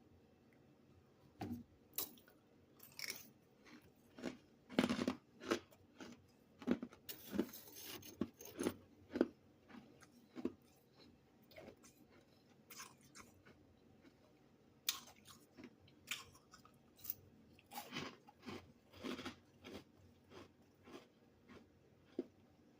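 Close-up chewing of crunchy freezer-frost chunks, in irregular clusters of crisp crunches with short pauses between bites.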